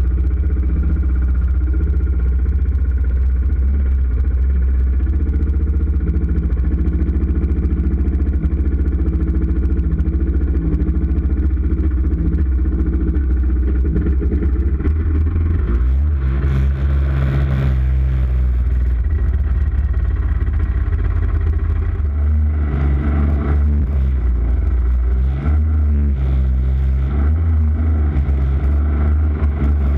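Jet ski engine running steadily under way with a strong low rumble, its pitch shifting as the throttle changes. There is a brief rush of hissing noise about halfway through.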